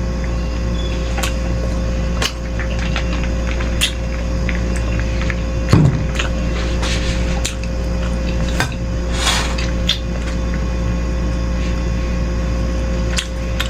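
Close-up eating of beef rib meatball soup: scattered clicks and taps of utensils against the bowl and chewing. A heavier knock comes about six seconds in and a short hissy slurp a little past nine seconds, over a steady low hum.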